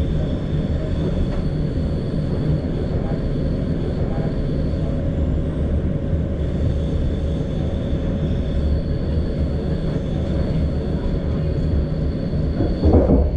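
Steady running noise of a passenger train heard from inside the coach: a low rumble of wheels on rails, with a faint high steady tone over it.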